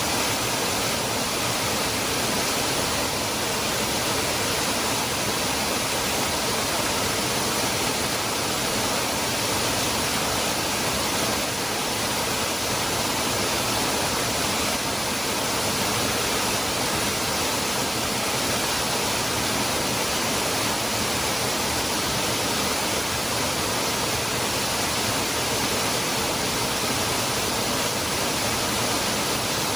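Cascada del Hervidero waterfall: a steady, unbroken rush of falling water, even across lows and highs and unchanging throughout.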